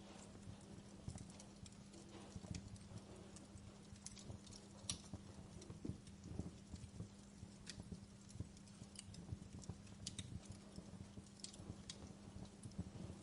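Wood fire crackling in a fireplace: irregular sharp snaps and pops over a low, steady rumble and hum.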